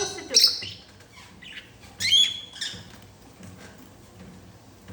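Pet parrot squawking: two loud, high, harsh calls, one just after the start and another about two seconds in, with softer chattering calls between and after.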